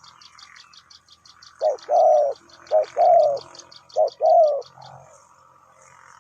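Spotted dove cooing three times, each phrase a short note followed by a longer, falling coo. A fast, even high ticking, about seven or eight a second, runs underneath and stops soon after the last coo.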